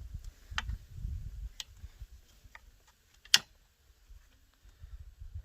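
Light clicks and knocks from handling a new chainsaw while its chain is being tensioned, with one sharp metallic click a little past halfway.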